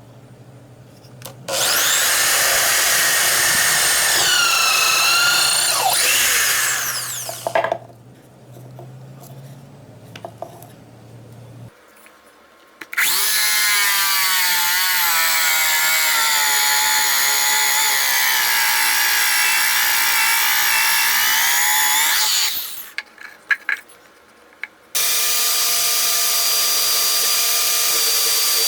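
An electric power tool cutting wood in three runs, its high motor whine wavering in pitch as it works through the cut, with short quieter pauses between the runs.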